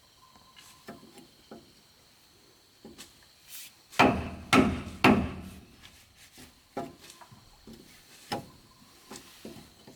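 Wood or bamboo being struck with a hand tool: a few light knocks, then three hard blows in quick succession about four seconds in, followed by a few lighter knocks.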